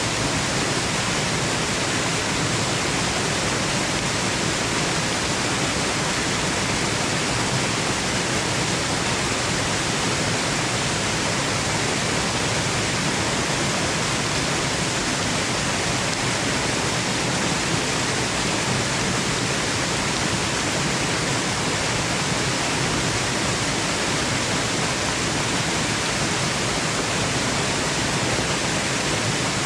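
Waterfall: falling water rushing in an even, unbroken hiss.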